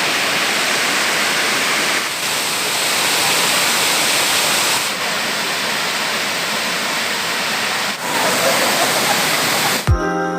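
Flowing water: a steady, loud rush of a clear stream, stepping slightly in level a few times where clips are joined. Electronic music with a heavy beat cuts in at the very end.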